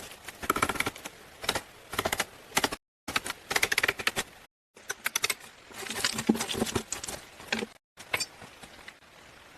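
Bursts of rapid clicking and knocking, several sharp strikes in quick succession, in short clips broken by abrupt cuts to silence.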